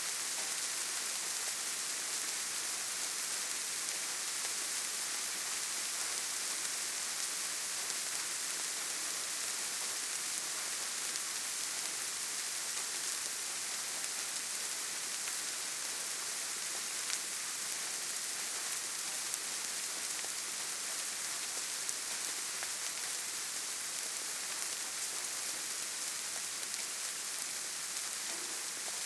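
Steady rainfall on foliage in a forest, an even hiss with occasional faint drop ticks.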